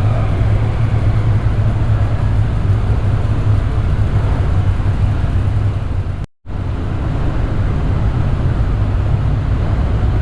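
Motorcycle engine running steadily with wind and road noise while riding. The sound cuts out completely for a moment about six seconds in, then resumes.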